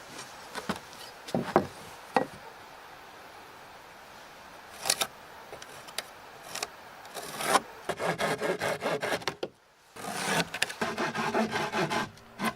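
Hand saw cutting a wooden floor plank, in two runs of quick, even rasping strokes with a short break between them. Before that there are a few scattered wooden knocks.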